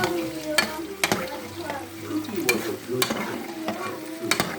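Potatoes frying in hot oil, sizzling, while a utensil stirs them and knocks against the pan several times.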